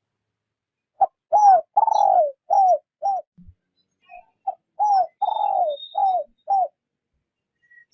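A decoy spotted dove cooing in the gentle 'rút bổi' style: two phrases of about five low coos each, one starting about a second in and the next about four seconds in, each with one longer drawn-out note. Faint high chirps of other small birds can be heard behind it.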